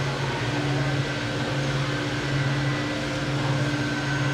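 Steady low mechanical hum that pulses slightly, with a fainter steady tone above it coming in about half a second in.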